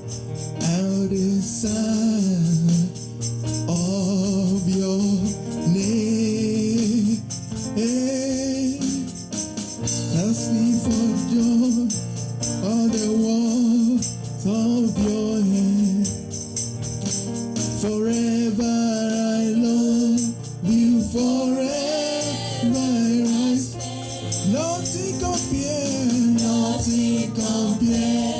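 Gospel worship music: a voice singing a melody over instrumental accompaniment, with a tambourine jingling steadily.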